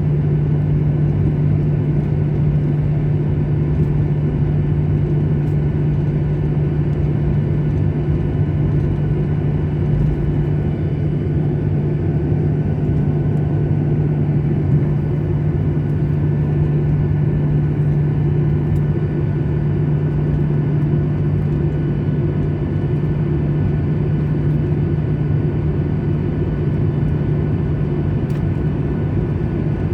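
Jet airliner cabin noise: engine and airflow noise making a steady loud drone with a strong low hum, unchanging throughout.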